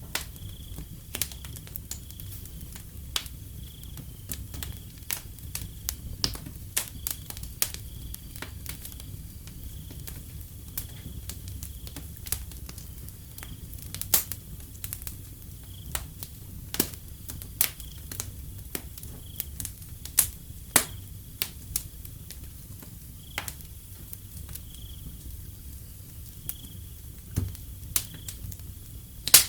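Wood fire crackling, with irregular sharp pops and snaps over a low rumble of the burning fire. Behind it, crickets give a faint, high chirp that repeats about once a second.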